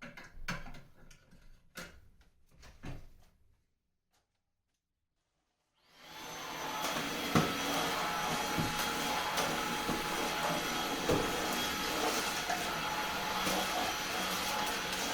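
A few clicks and knocks, then about six seconds in a Eufy HomeVac S11 cordless stick vacuum switches on and runs steadily with its motor whine, with an occasional knock of the cleaner head.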